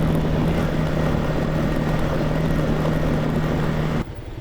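Small motorcycle engine running at a steady pitch while riding, under a constant rush of noise. The sound cuts off abruptly about four seconds in.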